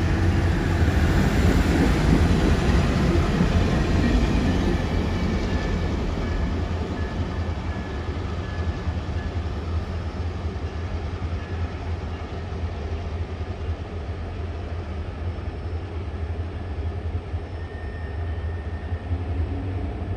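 Kansas City Southern passenger cars rolling across a concrete beam bridge, a steady rumble that fades gradually as the last car moves away.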